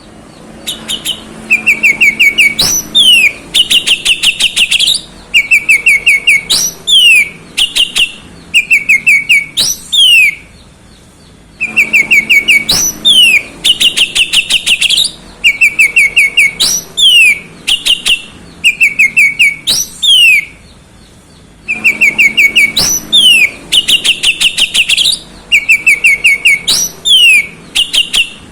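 Oriental magpie-robin (kacer) singing loudly: clear whistled notes, falling slurs and fast trills. The same roughly ten-second song sequence repeats three times with short pauses between.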